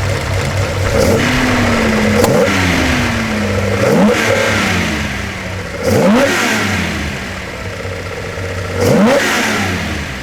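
Nissan Skyline C10 'Hakosuka' engine, fitted with Solex carburettors, headers, dual exhaust and a Trust 50 mm muffler, idling and revved with about five throttle blips, each rising sharply and dropping back to idle.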